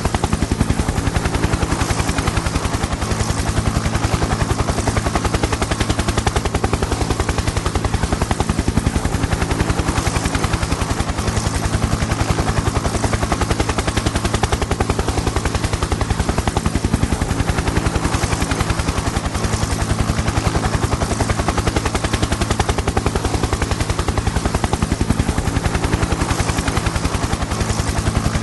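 Helicopter in flight: a steady, rapid chop of the rotor blades over a constant low engine drone.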